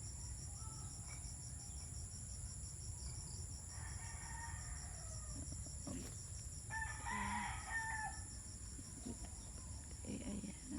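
Faint rooster crowing, twice: once about four seconds in and again a few seconds later, over a steady high pulsing insect trill.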